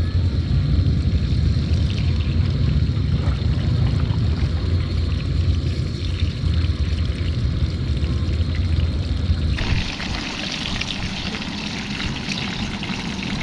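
A steady low rumble, then, about ten seconds in, an even sizzling hiss of catfish fillets frying in butter in a frying pan.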